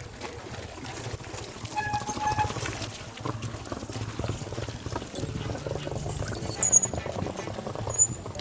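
Bicycle riding over a rough, muddy road, with the bike rattling and knocking throughout and a high squeak that comes and goes, dropping in pitch near the end.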